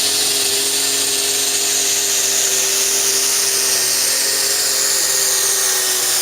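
Turbocharged super stock pulling tractor engine running hard at full throttle down the track, a loud, steady high-pitched scream over a deep drone.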